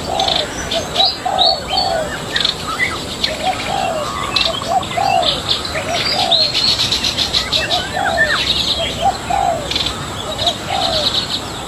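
Birds calling: a run of short, low, arched notes repeated every half second or so, mixed with higher chirps and rapid trills.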